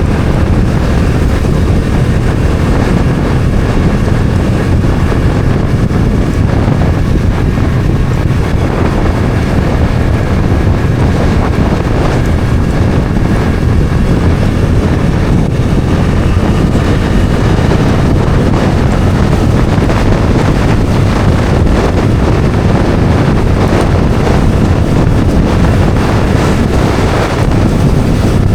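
Bajaj Dominar 400 engine running steadily at cruising speed, heavily mixed with wind rushing over the microphone.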